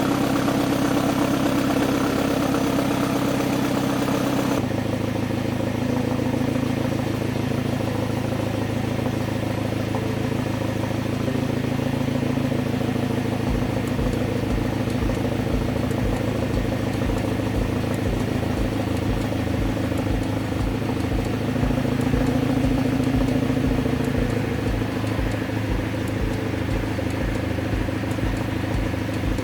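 Hyundai Genesis Coupe 2.0T turbocharged four-cylinder idling through a JunBL GT catback exhaust with a resonator and dual mufflers, a fairly quiet note. The engine note drops abruptly about four and a half seconds in, and a low pulsing rumble comes in about halfway through.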